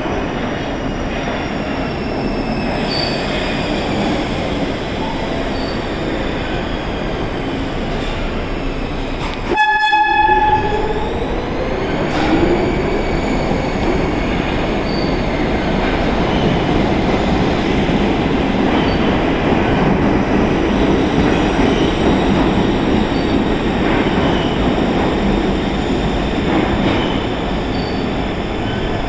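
R62 subway train running into a station, with steady wheel and motor noise and a gliding motor whine. Its horn sounds once, about a second long, roughly a third of the way through.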